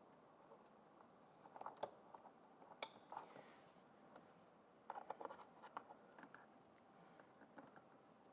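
Faint scattered clicks and rustling of plastic wiring-harness connectors and clips being handled and fitted inside a car door, with one sharper click about three seconds in.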